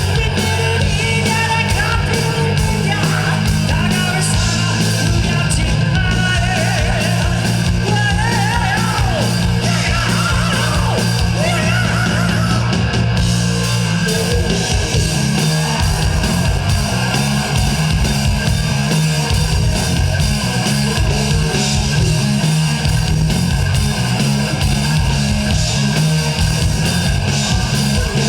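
Live rock band playing loudly: electric guitar over bass and drums, with rock vocals.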